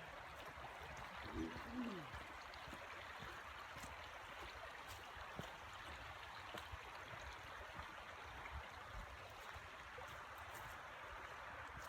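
Steady rushing of a creek's running water. A brief low voice sound falls in pitch about a second and a half in.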